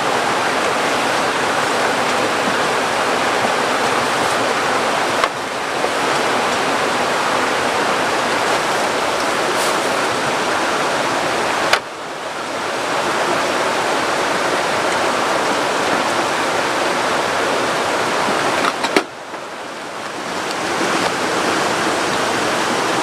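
Heavy tropical rain pouring down steadily, a dense, even hiss that dips briefly about three times.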